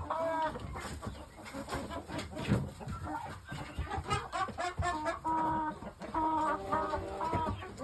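Chickens clucking in runs of short, level-pitched notes, loudest in the second half.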